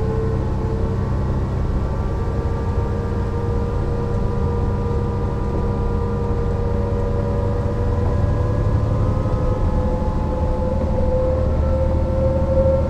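Mercedes-Benz O 405 NÜ intercity bus under way, heard from on board: a steady low diesel rumble with a drivetrain whine that slowly rises in pitch as the bus gathers speed.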